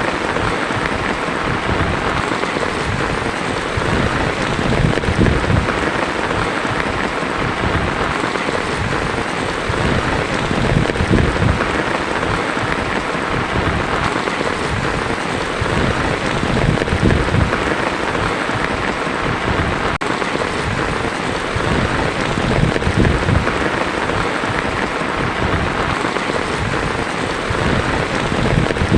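Heavy rain falling steadily on a tin roof, with a low rumble that swells and fades about every six seconds.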